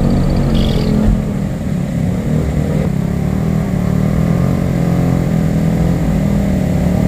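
Off-road 4x4's engine running with a steady, loud, low drone.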